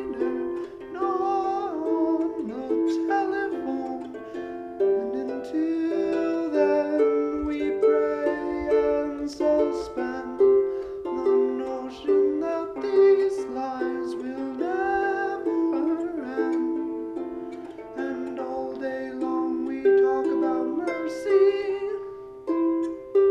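Live acoustic music: a plucked string instrument playing a quick, continuous run of notes, one after another, with no singing.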